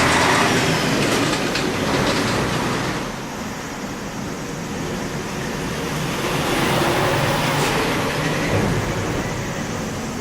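A dying large brown cicada buzzing in uneven fits: a dense, sizzling buzz that is loud for the first three seconds, eases off, then swells again around the seventh second.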